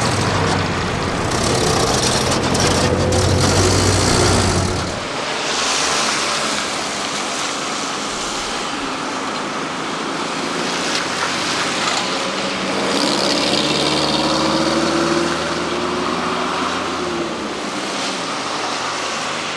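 Mazda T1500 three-wheeled truck driving, its engine running with a heavy low note for the first five seconds. The sound then changes abruptly to a lighter engine note with road noise, rising in pitch midway through as the truck accelerates.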